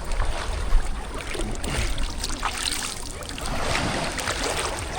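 Sea water sloshing and lapping in the surf, with wind rumbling on the microphone.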